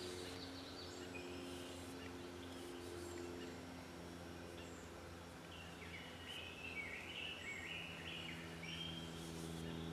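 Faint outdoor background: a steady low hum, with a bird chirping in short bursts in the second half.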